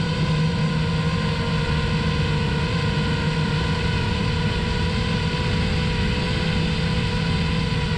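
Parrot Bebop 2 quadcopter's electric motors and propellers in flight, a steady multi-pitched buzzing hum over a rush of propeller wash.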